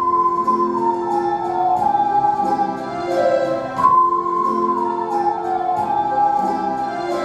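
Ocarina ensemble playing a slow melody in unison over a lower accompaniment; the tune steps downward in a falling phrase, then starts the phrase again from the top about halfway through.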